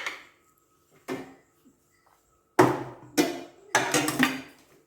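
Glass jars, lids and a spoon clinking and knocking as they are handled: a knock at the start, another about a second in, then a quick run of louder clinks over the last two seconds.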